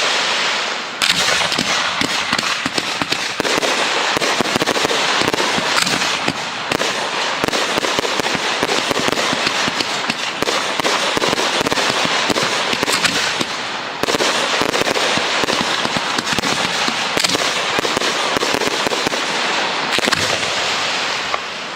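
Professional fireworks display going off: a dense, unbroken run of bangs and pops, easing off near the end.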